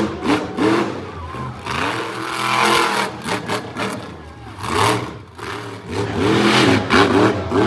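Monster truck engine revving hard in repeated bursts, the pitch swinging up and falling back again and again.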